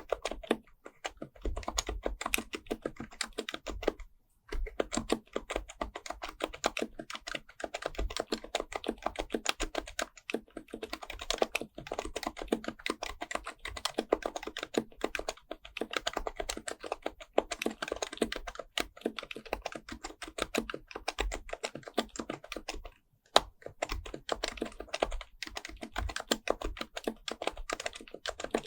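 Fast continuous typing on an HHKB Professional Type-S keyboard with its Topre capacitive switches: a dense stream of soft keystrokes, with short breaks about four seconds in and again near twenty-three seconds.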